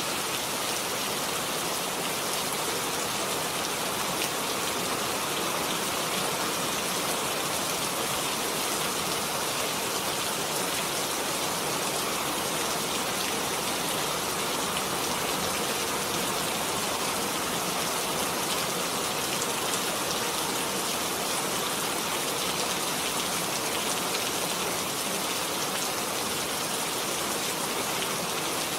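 Steady rain falling, a dense even hiss of many small drops without letup.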